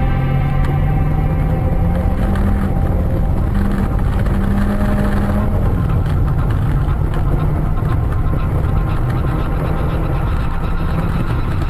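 Car engine and road noise while driving: the engine hum rises in pitch over the first few seconds, then drops about six seconds in and runs on steadily.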